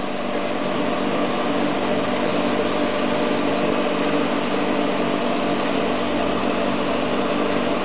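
Glass drilling and countersinking machine running steadily, its motor and spindle humming while it works a hole in glass.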